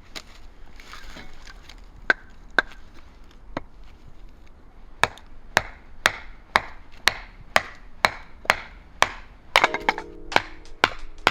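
Knife chopping on a wooden cutting board: a few scattered cuts, then steady strokes about two a second from about five seconds in.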